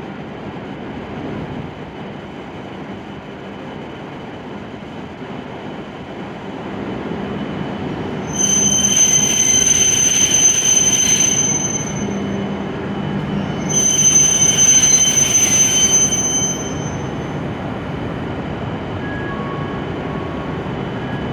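A Hokuriku Shinkansen train pulls into the platform with a steady running rumble that grows louder. Two spells of high, steady squeal, about eight and fourteen seconds in, each last about three seconds as the train brakes to a stop.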